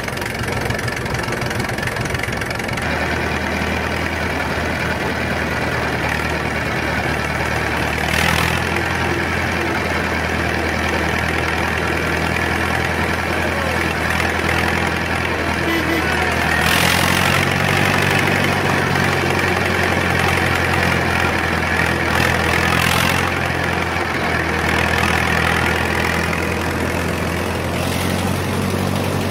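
Old tractor engine running steadily at low speed with a low, even hum that shifts slightly about halfway through, and a few brief sharper noises over it.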